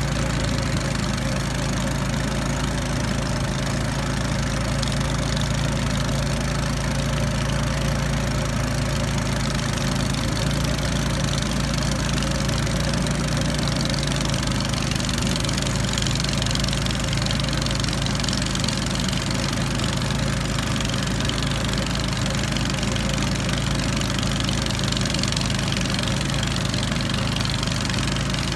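The raft's small outboard motor running steadily, a constant engine hum with no change in speed.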